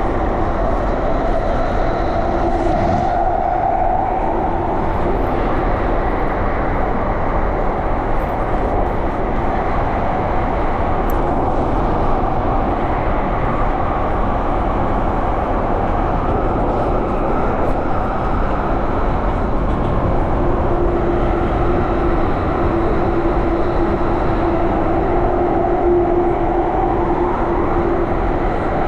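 Underground train running between stations, heard from inside the carriage: a steady loud rumble of wheels and car noise. A humming tone rises over it near the start and again for several seconds in the last third.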